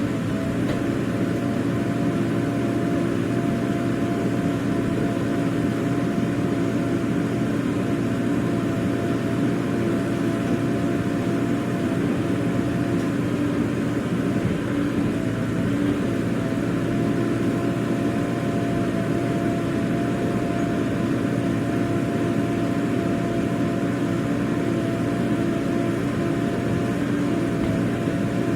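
Heavy diesel engine running steadily with an even hum and no clear revving.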